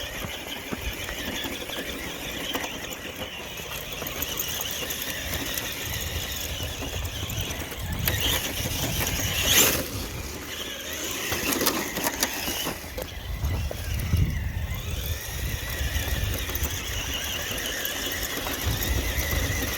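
RC rock-crawler truck's brushless electric motor and gear drivetrain whining as it crawls over dirt, the whine rising and falling with the throttle. There is a sharp knock about halfway through.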